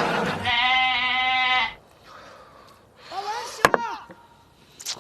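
Sheep-like bleat: one trembling call about a second long. Softer sliding squeaks and a sharp click follow.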